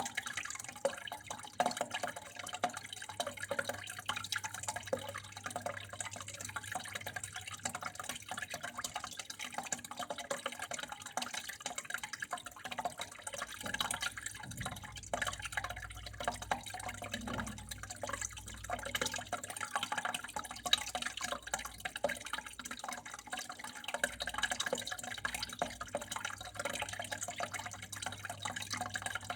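Water flowing and trickling steadily, with a dense, irregular patter of small drips and splashes.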